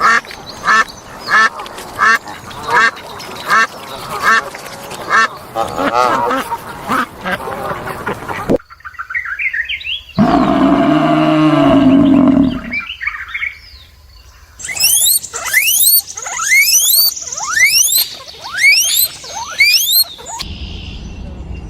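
Several different animal calls in turn: first a run of short, evenly spaced calls, about one and a half a second, then a low drawn-out call, then a quick series of high falling whistled chirps.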